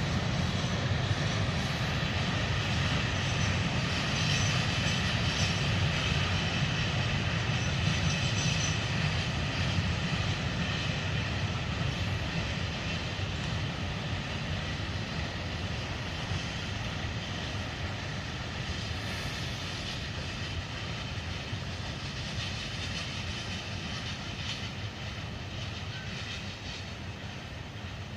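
Freight train rolling past on the track, a continuous rumble of wheels on rail that gradually fades over the last several seconds as the train moves away.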